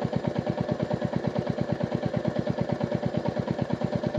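Royal Enfield Meteor 350's single-cylinder engine idling with a steady, even thump, about a dozen beats a second.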